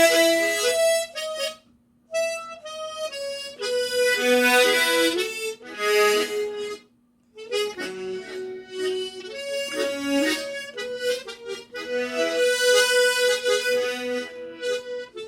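Harmonica playing a slow melody in a Slow GoGo rhythm, with octave-and-fifth chord accents under the single notes. It plays three phrases, with short breaks about two and seven seconds in.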